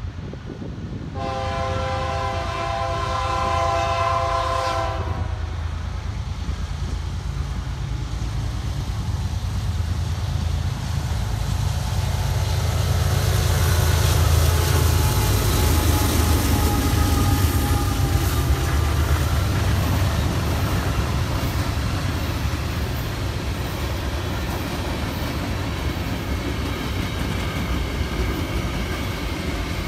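A train horn sounds one chord for about four seconds, then a diesel locomotive rumbles past, loudest around the middle, followed by railcars clattering over the rail joints.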